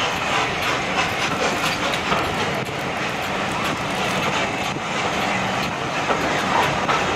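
Railway carriage running along the track, its wheels clicking over the rail joints with a steady rumble, heard from aboard the moving train.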